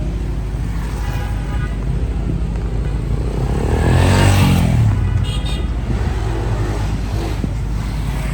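Street traffic: motor vehicle engines running steadily, with one vehicle passing close about four seconds in, swelling and fading away.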